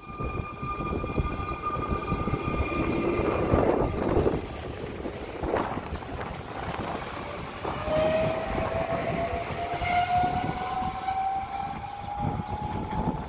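A Trenitalia Minuetto electric multiple unit running past close by and pulling away: wheels rumbling on the rails with knocks, loudest about four seconds in. A high steady whine is heard at first. From about eight seconds a single electric traction whine rises slowly in pitch as the train picks up speed.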